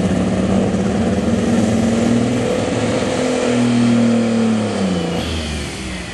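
Super stock pulling tractor's engine running hard under full load. Its pitch falls about two-thirds of the way through as it comes off the throttle, with a faint whistle sliding down at the same time.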